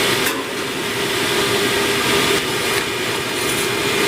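A motor running steadily, a constant hum under an even whirring noise, while a dryer vent is being cleaned.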